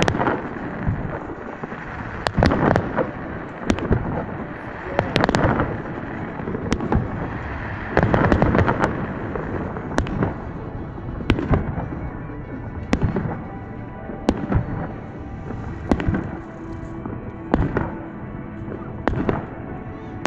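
Aerial fireworks shells bursting in the sky: a sharp bang about every second and a half, with crackle and rumbling echo between the bangs.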